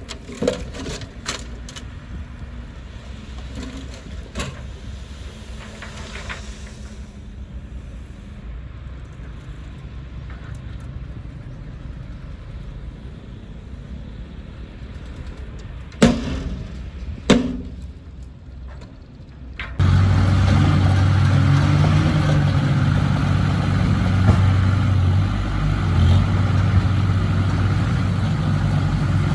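Heavy-equipment diesel engine running in the background, broken by sharp cracks, two of them loud about two-thirds of the way through. About 20 seconds in, the sound cuts abruptly to a loud, steady diesel engine running close by.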